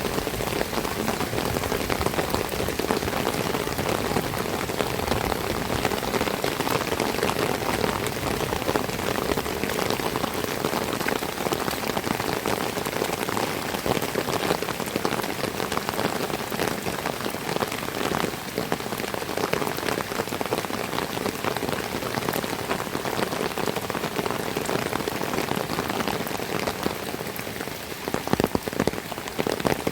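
Heavy rain pouring, a dense patter of drops hitting surfaces, with sharper, louder drop hits near the end.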